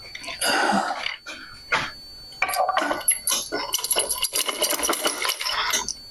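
Irregular clinking and clattering of metal parts and tools being handled, with a quick run of clanks in the second half.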